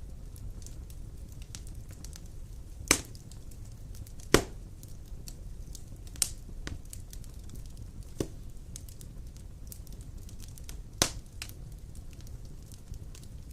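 Wood fire crackling in a stone fireplace: a low steady roar of flames with scattered small ticks and five sharp pops, the loudest about four seconds in.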